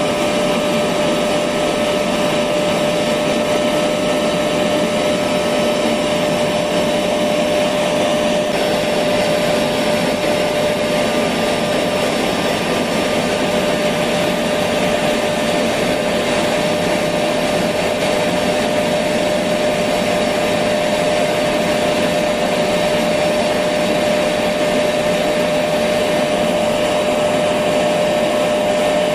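Electric vacuum cleaner running steadily, its motor giving a constant hum with a high whine over a rushing airflow noise.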